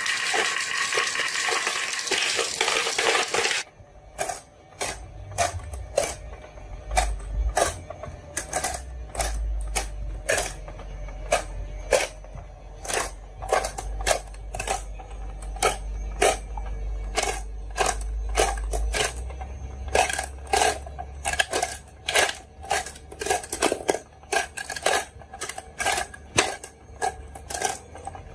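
Marbles rolling down a wooden HABA marble run, clacking sharply one to three times a second over a low rolling rumble. A dense rushing clatter fills the first few seconds and cuts off suddenly.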